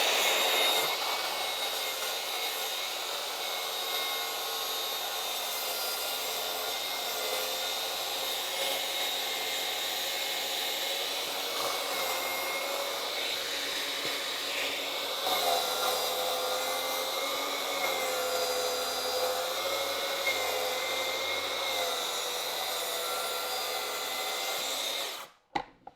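Track saw running through a long diagonal cut in plywood, its motor whine wavering in pitch under load. It cuts off abruptly near the end.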